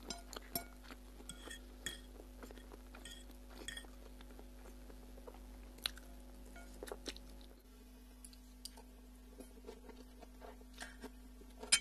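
Quiet close-up eating sounds: a person chewing instant noodles, with scattered soft clicks and clinks of a fork and spoon against a plate.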